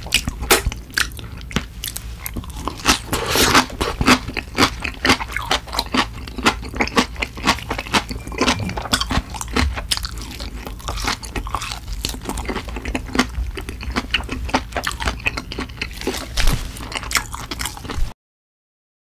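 Close-miked mukbang chewing of grilled beef small intestines (gopchang): crunching and squelching bites with many sharp wet mouth clicks, cutting off suddenly near the end.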